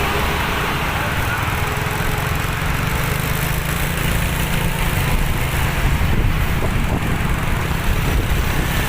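Motor vehicle engine running steadily with a low rumble and road noise.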